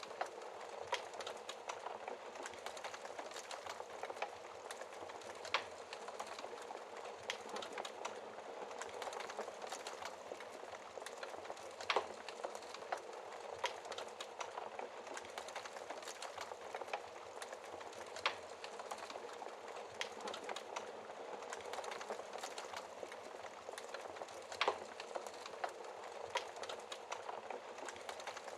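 Wood fire crackling in a fireplace: a steady hiss of burning with constant small snaps and a few louder pops about every six seconds.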